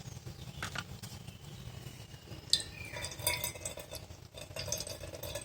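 Quiet kitchen handling: a few light knocks and clinks of a knife and a vessel while a tender coconut is worked open and its water drained.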